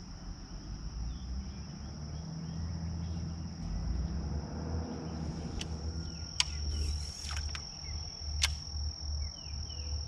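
A steady, high-pitched insect chorus, with a low rumble underneath. Two sharp clicks sound about six and a half and eight and a half seconds in, and short falling chirps come near the end.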